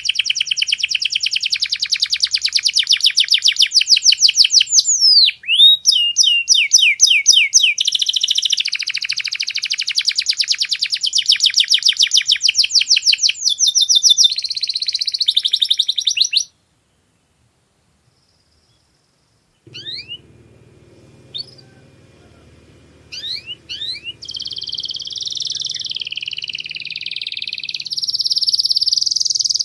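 Domestic canary singing fast rolling trills and chirps, switching phrase every few seconds. About halfway the song breaks off into a few seconds of dead silence, then returns over a faint low hum, first as a few scattered chirps and then as full trilling again.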